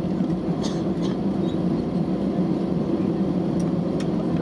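Steady low cabin rumble inside an Airbus A320neo taxiing to its stand after landing, with the engines near idle. A few faint light ticks sound over it.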